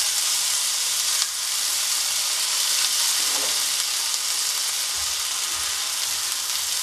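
Onion, tomato and spice masala frying in oil in a nonstick pan, giving a steady, high sizzle.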